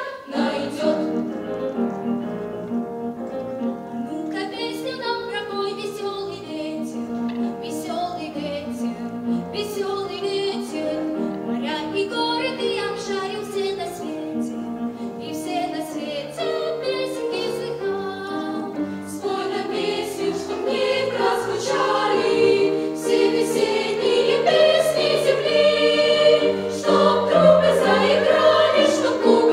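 A young female soloist singing a melodic song over instrumental accompaniment, swelling louder over the last ten seconds or so.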